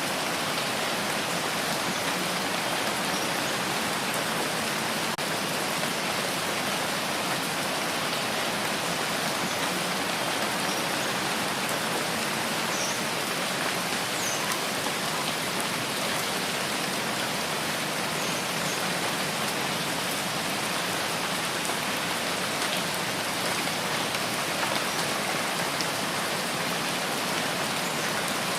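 Steady rain falling with scattered drops pattering on a surface.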